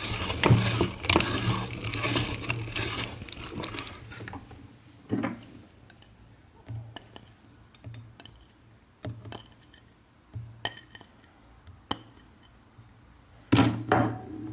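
Meat grinder crunching and grinding hard candy for about four seconds, followed by separate short clinks and knocks every second or so, with a louder cluster near the end.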